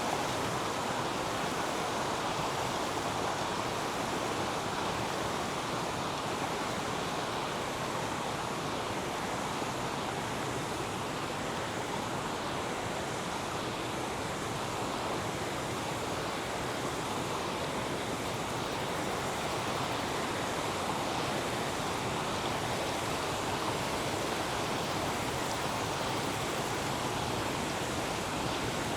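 A river rushing steadily over rocks, an even, unbroken wash of water noise.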